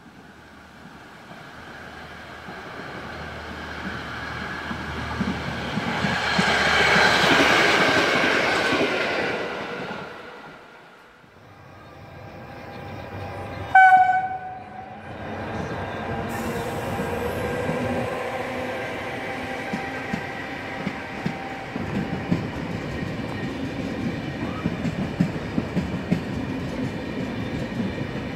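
A train passes by, its running noise swelling to a peak about seven seconds in and then fading away. About halfway through, an E464 electric locomotive gives a short horn blast. Its double-deck Vivalto coaches then roll past, with the wheels clacking regularly over the rail joints.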